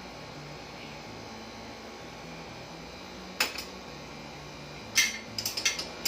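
Metal hand tools clinking against metal: a sharp clink about three and a half seconds in, then a quick cluster of clinks about five seconds in, over a low steady hum.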